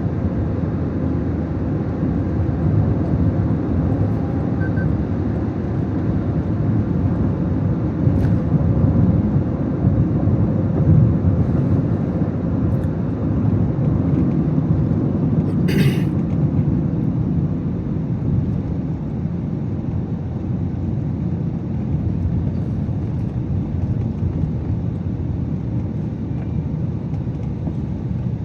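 Car driving, with a steady low rumble of engine and road noise and a brief sharp high sound about sixteen seconds in.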